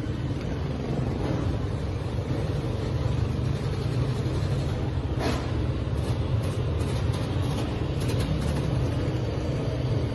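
Dirt bike engines running steadily, with a deep continuous rumble.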